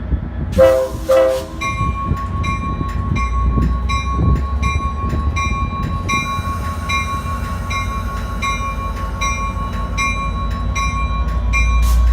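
Train horn sounding two short blasts, followed by a bell ringing steadily about twice a second over the low rumble of the train.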